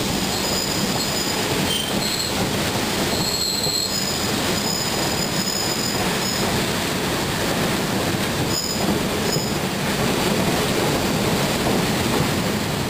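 Steam train running through a curve, heard from an open car: a steady rumble of the running train, with the wheels squealing high against the rails several times.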